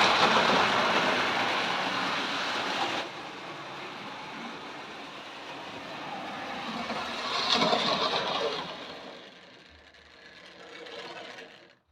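Tri-ang Princess Elizabeth model locomotive running round its track, with a steady whirring of motor and wheels on rail. It is loudest at first, drops suddenly about three seconds in, swells again as it comes close around eight seconds, then fades away.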